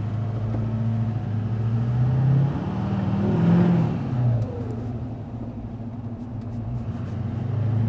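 Duramax 6.6-litre turbo-diesel V8 heard from inside the truck's cab while driving, running through a 5-inch straight-pipe exhaust with the muffler deleted. The engine revs up about two seconds in, peaks around three and a half seconds, then eases back to a steady cruise.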